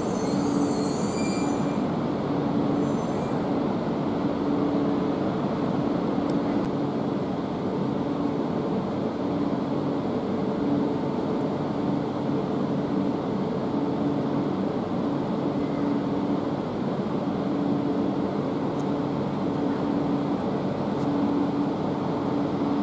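E2 series Shinkansen train running along the station platform: a steady rushing noise under a low hum, with a brief high squeal in the first second or so.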